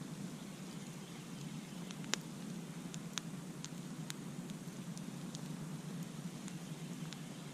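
Wood campfire burning: a steady low rush of flame with irregular sharp crackles and pops scattered through it, the loudest pop about two seconds in.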